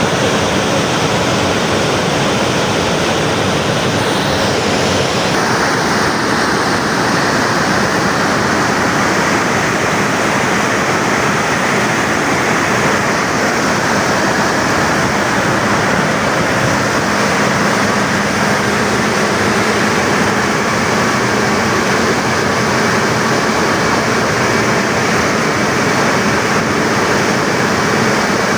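Loud, steady rush of water discharging through a dam's service spillway, with a slight change in its tone about five seconds in.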